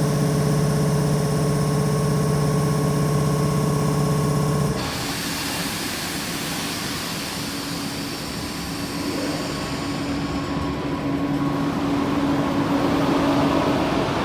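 Train passing close by: a steady whine of several pitches for the first five seconds or so, which breaks off suddenly into an even rushing rolling noise with a low hum.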